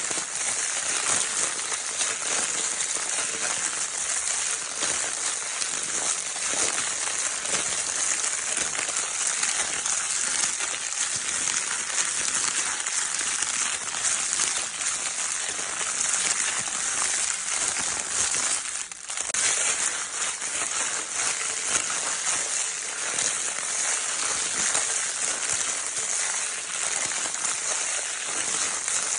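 Crinkle paper from a baby's crinkle toy being crumpled and rustled nonstop, a dense high crackling with a brief pause about 19 seconds in.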